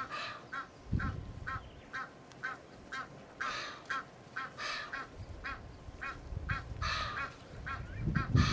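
Wild birds calling: a steady run of short repeated calls, about two a second, with a few louder, harsher calls over them. A low rumble comes in about a second in and again near the end.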